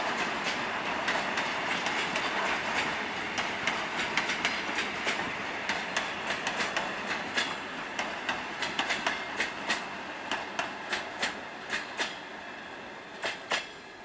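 Electric suburban train (elektrichka) running past and pulling away, its wheels clacking over the rail joints in quick knocks over a steady rolling rush that fades as it recedes. Two louder clacks come close together near the end.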